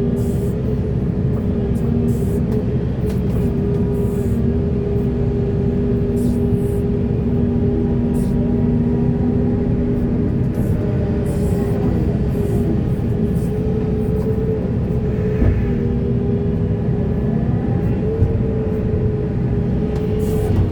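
Heavy diesel earthmoving machinery running steadily under load, with a deep engine drone and brief sharp clicks and knocks scattered throughout.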